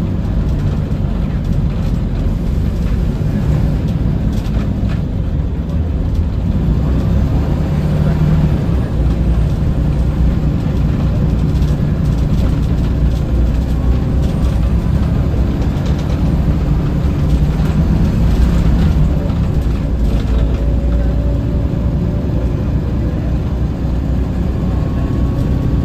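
Scania L94UB city bus running on the road, heard from on board: a steady low engine drone with road noise. A faint whine rises slightly near the end.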